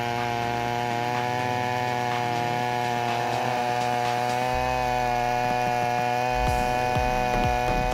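Large Echo two-stroke chainsaw running at a steady high speed, a constant buzzing note that holds its pitch throughout.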